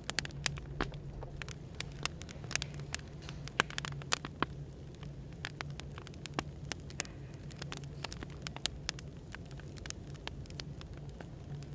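Wood fire crackling, with irregular sharp pops and snaps over a steady low hum of background noise.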